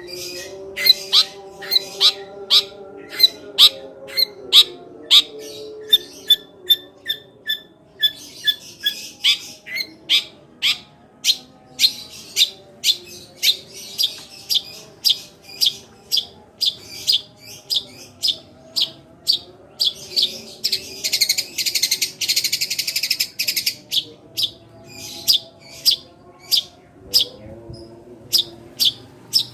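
Eurasian tree sparrow chirping in a rapid 'tembakan' run: sharp, high chirps about two a second, breaking into dense chattering stretches twice.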